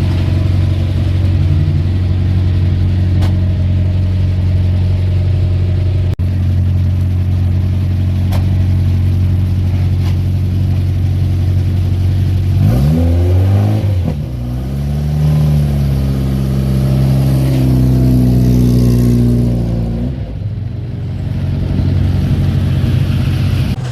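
Historic rally car engine holding steady revs, then revving sharply up and back down about halfway through before settling into a steady drone again. The revs dip and climb once more near the end.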